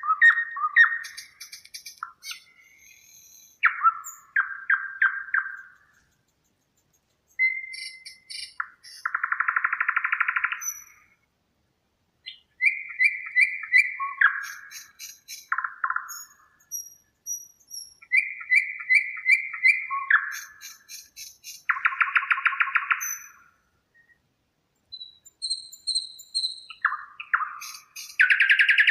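A songbird singing in separate phrases a second or two long, broken by short pauses, several of them fast buzzy trills. No other sound behind it.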